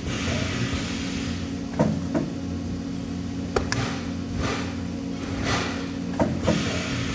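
Steady low machine hum with spells of hiss and a few sharp metallic clicks and knocks, from TIG welding work with parts being handled.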